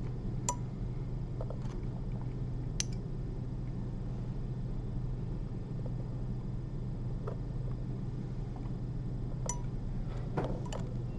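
Steady low room hum with a few faint, sharp clicks of small surgical instruments (needle holder and forceps) being handled while suturing a model, a cluster of them near the end.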